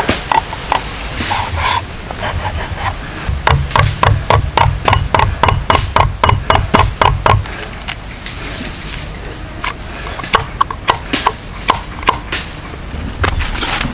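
A tool striking wood, repeated knocks: scattered at first, then a steady run of about four a second for several seconds, then scattered again near the end.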